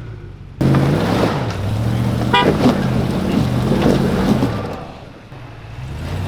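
Engine of an off-road 4x4 working up a rocky climb, its pitch rising and falling with the throttle. A brief high squeal comes about two seconds in, and the engine eases off for a moment near the end before picking up again.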